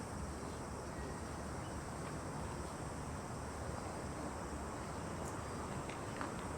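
Steady, faint background ambience: a low rumbling hiss with a thin, steady high hum above it, and a few faint ticks near the end.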